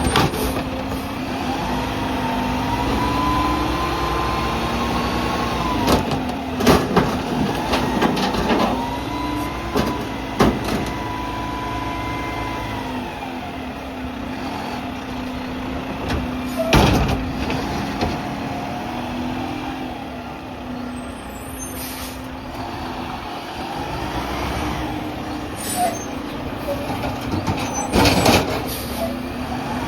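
Mack MRU garbage truck running, its engine revving up and holding for several seconds twice while it drives the McNeilus front loader's hydraulics. Several loud bangs and clanks from the dumpster and the lift arms.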